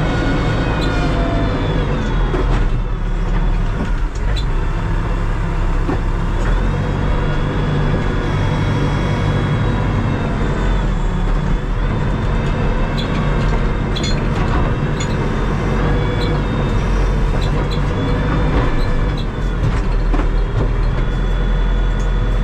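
Terex TLB-815 backhoe loader's diesel engine running under load while it works, its pitch rising and falling several times, with a few short clicks and knocks about two-thirds of the way through.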